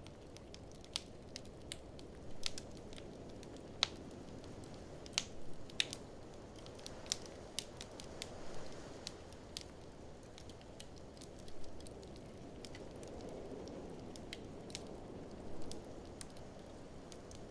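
Wood fire crackling in an open fireplace: irregular sharp pops and snaps over a steady low rushing of flames, with a faint swell of blizzard wind.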